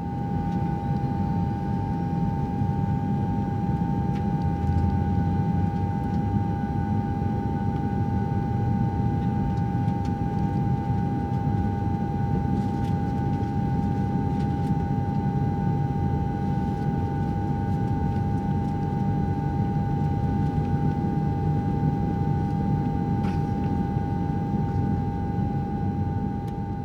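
Steady, unbroken vehicle rumble, heavy in the low end, with a constant high whine over it.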